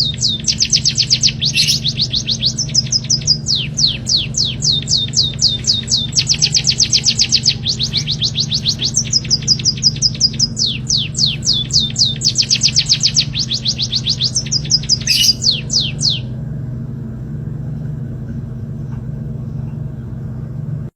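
A small songbird singing fast runs of sharp, falling notes, several a second, in phrases that stop about sixteen seconds in. A steady low hum runs underneath throughout.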